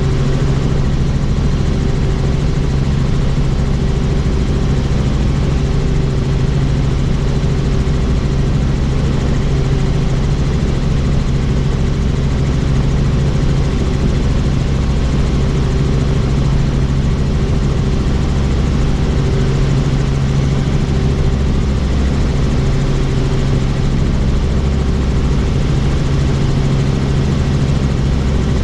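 Helicopter in flight: loud, steady rotor and engine drone with a low hum that does not change.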